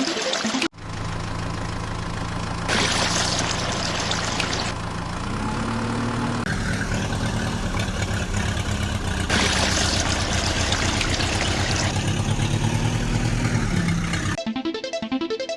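Engine running steadily, revving up about five seconds in and holding the higher speed, then dropping back just before it cuts off, with two stretches of hissing over it.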